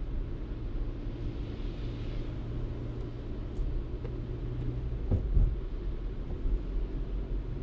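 A car driving with a steady low rumble of engine and road noise, with a brief hiss about two seconds in. A couple of knocks come about five seconds in, like the car jolting over a bump.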